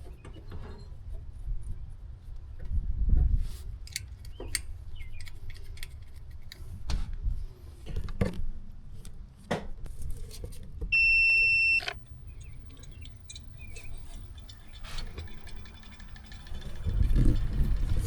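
Scattered clicks, knocks and metallic clinks from handling tools or parts, with one high electronic beep lasting about a second around the middle, and a low rumble near the end.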